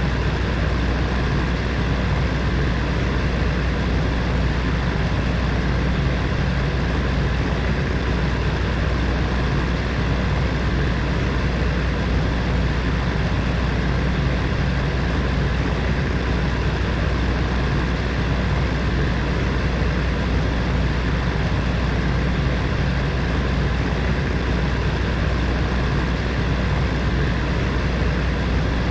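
Heater fan running steadily: an even rush of air over a strong low hum.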